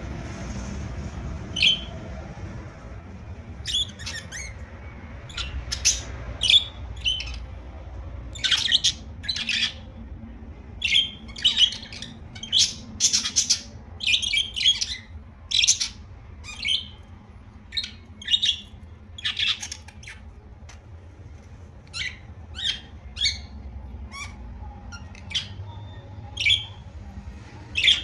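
Pet budgerigars chirping and squawking: many short, sharp calls in irregular bursts, busiest in the middle, over a low steady background hum.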